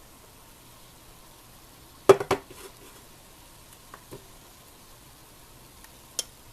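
Dishes and utensils clinking: a loud double clatter about two seconds in with a brief ring, then two light taps and one sharp click near the end.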